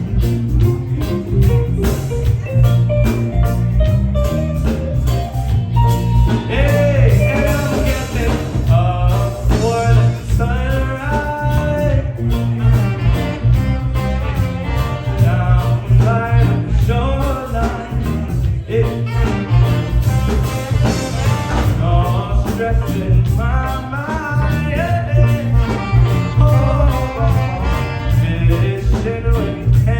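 Live reggae band playing, with steady heavy bass and drums and a singing melody over it from about six seconds in.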